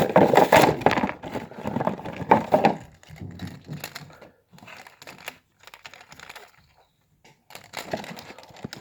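Toy packaging being handled and opened: crinkling and cracking of plastic and cardboard. It is dense for about the first three seconds, then thins to scattered clicks and rustles.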